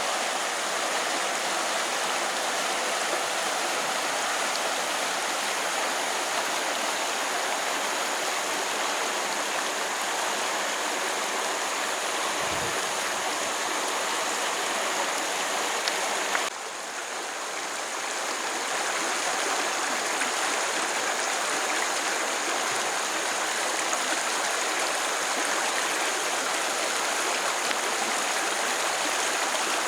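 Steady rushing of a flowing stream, an even watery hiss. About halfway through it dips abruptly and swells back over a couple of seconds.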